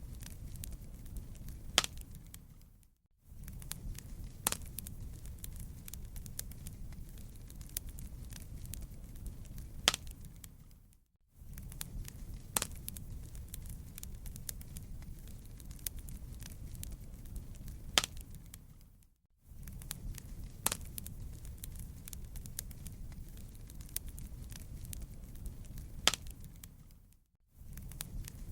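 Wood fire crackling, with scattered sharp pops over a low steady rumble. The sound fades out briefly to silence about every eight seconds and starts again, the same stretch of audio looping.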